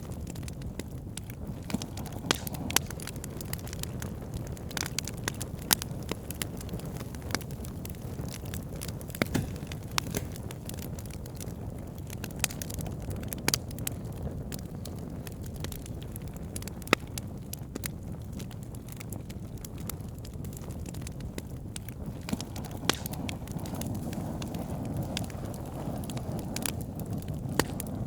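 Campfire burning: a steady low rush from the fire, with irregular sharp crackles and pops from the burning wood.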